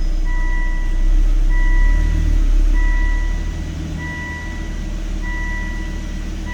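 Volvo V70R's turbocharged five-cylinder engine idling in first gear with the wheels turning off the ground; a low drone that swells briefly about a second in. Over it a two-tone warning beep repeats evenly about every 1.25 seconds.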